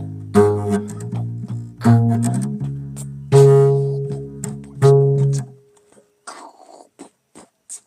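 Bass guitar played solo: a few plucked notes, each ringing and fading, about one every second and a half. The playing stops about five and a half seconds in, leaving only a few faint clicks.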